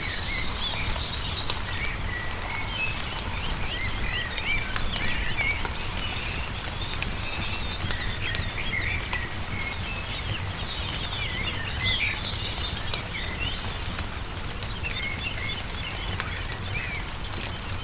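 Wood fire crackling in sharp, scattered pops, with songbirds chirping and trilling throughout, over a steady low rumble.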